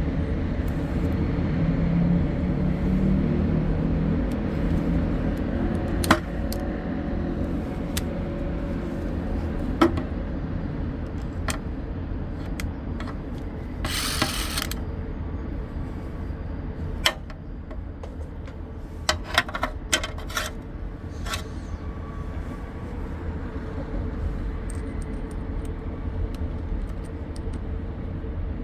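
Steady low rumble with a constant hum, broken by scattered sharp clicks and taps, a quick cluster of them about 19 to 20 seconds in, and a brief burst of hiss about 14 seconds in.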